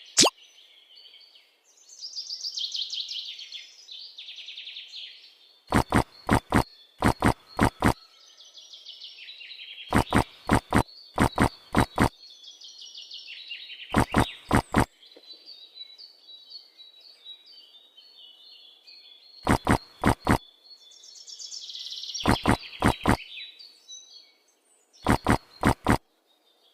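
Outdoor animal sounds: high chirping and twittering, broken about every four seconds by a quick run of four to six sharp, evenly spaced clicks, which are the loudest sound.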